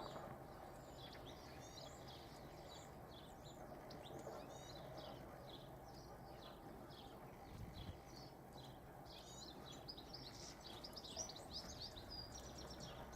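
Small songbirds chirping and twittering faintly, a quick run of short high notes, busier near the end, over a steady low background hum.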